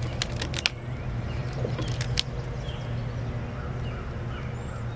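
Rubber bands snapping tight onto a watermelon: a quick run of sharp clicks in the first second, then a few more about two seconds in, over a steady low hum. Birds chirp faintly near the end.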